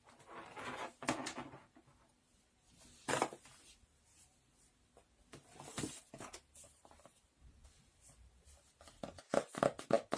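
Household objects being handled: scattered knocks and rustles, with a quick run of knocks and taps near the end.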